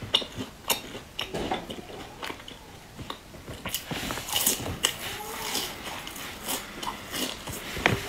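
Close-miked chewing and biting of a baked cake, with wet mouth clicks and crackles. A fresh bite about four seconds in brings the densest run of crunchy clicks.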